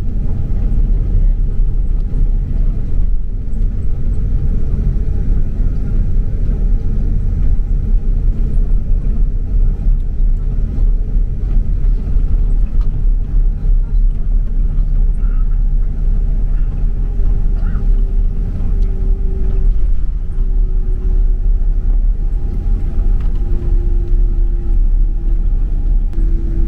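Boeing 767-300 cabin noise heard from a window seat: a steady low rumble of engines and airflow with a thin constant tone above it. About two-thirds of the way through, a lower hum comes in and steps down in pitch a few times.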